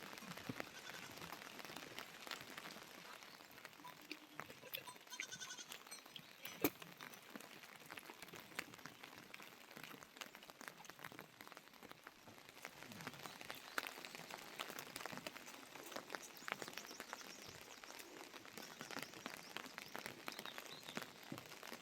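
Rain falling with dense, irregular drips, and a farm animal calling a few times.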